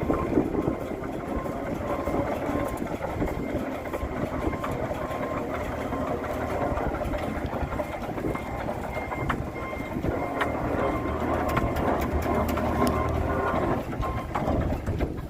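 Steady running of engines under load as a 1922 Rumely OilPull is towed by a small Bobcat to turn its engine over. The old engine does not catch, because it is getting no fuel.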